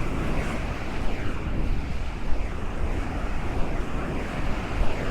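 Ocean waves washing onto the beach, with wind buffeting the microphone in uneven low gusts.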